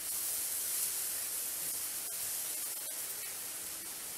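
Fresh yellow noodles sizzling in a little hot oil in a wok, a steady high hiss that starts as they go in.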